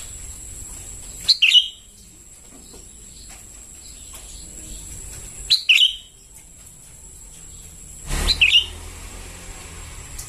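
Juvenile sooty-headed bulbul calling: three short, sharp call notes about three to four seconds apart, each a quick sweeping chirp.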